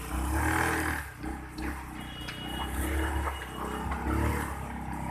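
A vehicle's engine runs with a low rumble while it jolts over a rough, broken road, with a few short knocks and rattles.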